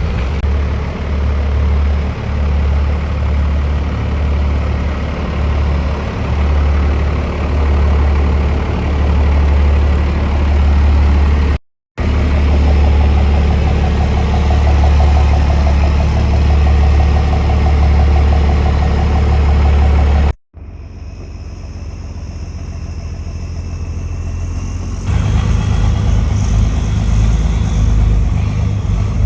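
A motor vehicle engine idling with a strong, steady low drone. The sound cuts out abruptly twice, and after the second cut it comes back quieter before a different engine drone starts about three-quarters of the way through.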